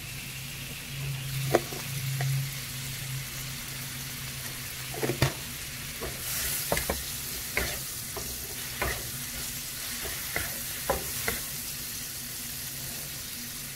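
Shrimp, clams and scallops sizzling in butter in a wok as a wooden spatula stirs them, with scattered light knocks of the spatula against the pan. The sizzle gets louder about six seconds in.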